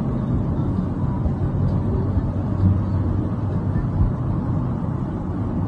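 Steady rumble of a car's engine and road noise while driving, with a low engine hum coming through in the middle.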